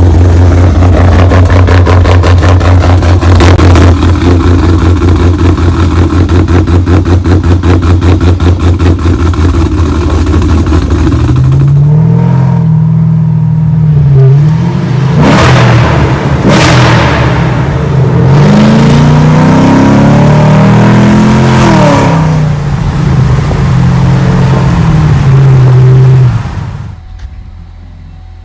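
Straight-piped, catless-headered 6.2-litre V8 of a 2011 Camaro SS with a Stage IV camshaft. It idles with a choppy, evenly pulsing lope, then is revved in repeated throttle blips that rise and fall. The sound drops off sharply near the end.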